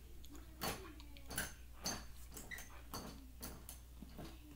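Chewing a mouthful of dry cornstarch close to the microphone: a string of short, clicky crunches and mouth smacks, about two a second and unevenly spaced.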